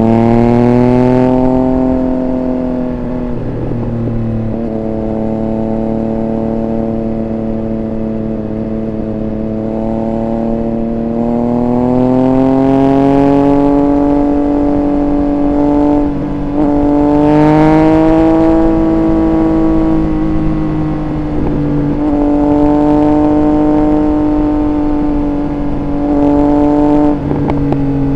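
Triumph Speed Triple 1200 RR's inline three-cylinder engine under way. Revs rise near the start, fall away, then climb again around the middle and keep rising and easing off, with short sudden dips in pitch that fit gear changes or throttle blips.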